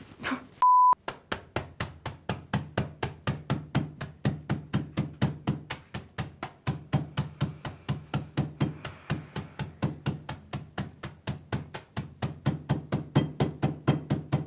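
A rapid, evenly spaced run of sharp knocks, about four a second, over a steady low hum. It starts just after a short electronic beep.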